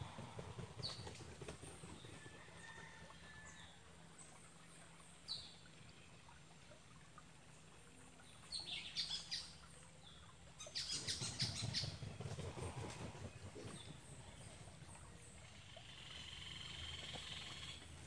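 Quiet birdsong: scattered short chirps, with two busier runs of calls around the middle, over a low rumble.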